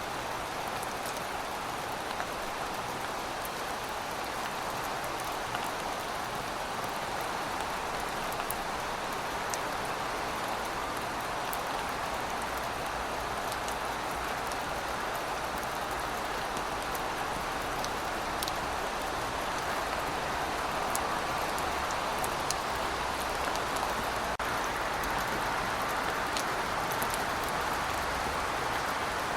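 Steady rainfall: a continuous hiss of rain with the faint ticks of individual drops landing on a surface.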